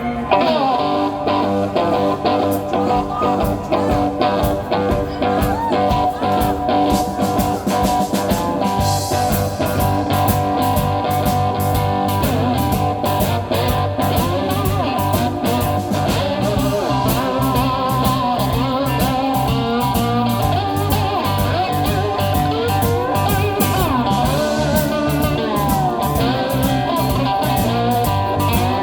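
Live blues slide guitar on a cigar box guitar, notes gliding up and down. About nine seconds in, a steady drum beat and bass join.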